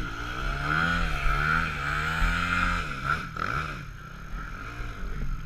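A trail motorcycle engine revving with an unsteady, wavering pitch for about three seconds as the bike struggles in a deep water and mud crossing, then fading away.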